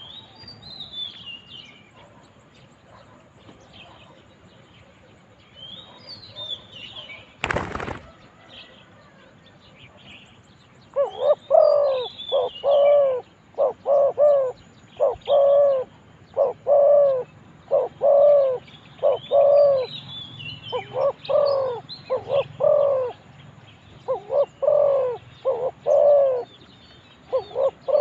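Spotted dove cooing over and over in short phrases of two or three rounded notes, starting about eleven seconds in. Small birds chirp higher up throughout, and there is one sharp knock about eight seconds in.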